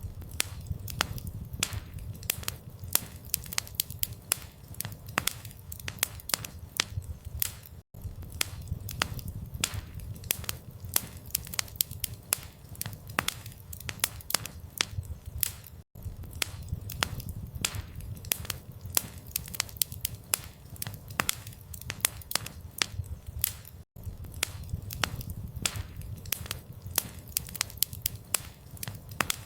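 Campfire crackling: wood burning with a steady run of irregular sharp pops and snaps over a low rumble of flame. The sound cuts out for an instant about every eight seconds.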